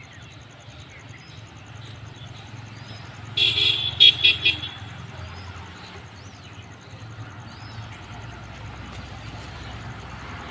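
A horn sounds one short blast followed by three quick toots, the loudest thing here, over a steady low rumble and scattered bird chirps.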